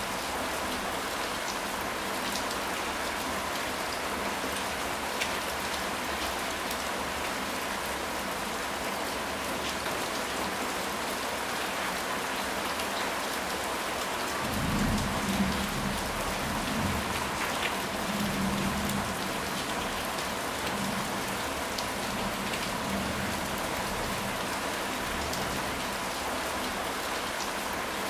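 Steady rain falling, with a low rumble of thunder rolling for several seconds about halfway through.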